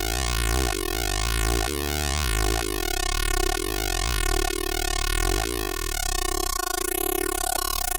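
K-ACCUMULATOR synthesizer oscillator module playing a pulsar texture: a steady buzzing tone with many overtones whose brightness sweeps up and down, swelling about once a second. After about six seconds the swells give way to a fast, even flutter.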